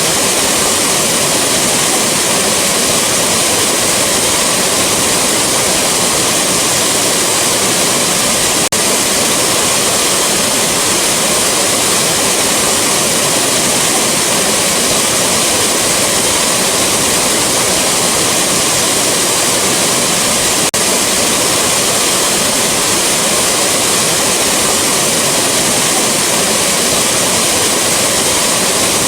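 Rushing waterfall: a steady, dense wash of falling water, broken twice by a split-second dip in level.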